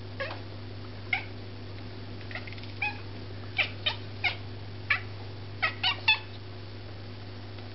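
Devon Rex cat making about a dozen short, high chirping calls in irregular succession, the chatter a cat makes while watching birds.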